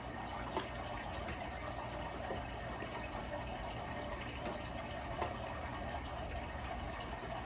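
Steady low hiss and hum of background noise, with two faint clicks, one about half a second in and one about five seconds in.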